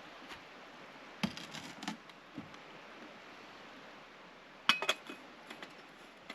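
Light knocks and clinks of hard objects being handled, in a cluster about a second in and a louder one near the end, some with a short ring, over a faint steady hiss.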